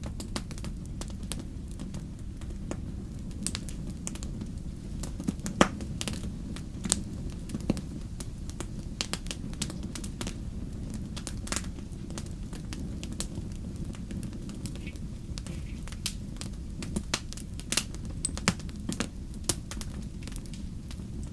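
Fire crackling in a fireplace: a steady low rumble of flames with frequent irregular snaps and pops, one sharper pop about five and a half seconds in.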